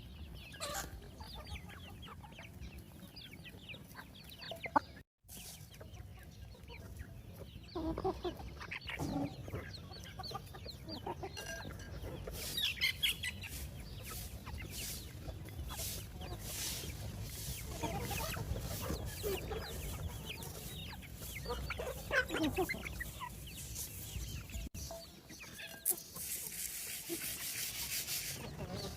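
Chickens clucking on and off, short scattered calls over a steady outdoor background. A sharp click about five seconds in is followed by a brief dropout in the sound.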